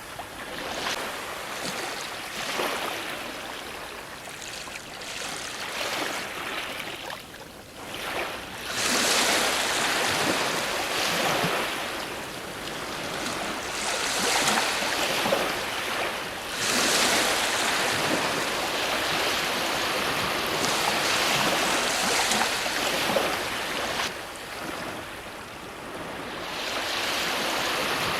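Ocean waves breaking on a shore, a continuous rushing wash that swells and recedes every few seconds.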